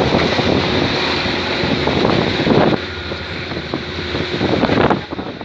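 A boat running through big waves: steady rushing of water and wind buffeting the microphone over the engine, with a couple of heavy thuds.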